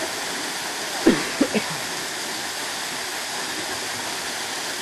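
Waterfall pouring steadily into a pool, an even rushing noise. About a second in, a voice gives a few short calls that fall in pitch.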